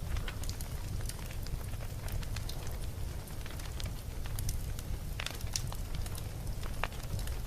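Campfire burning with a steady low rumble of flame and irregular crackles and pops of burning wood, a few louder pops near the end.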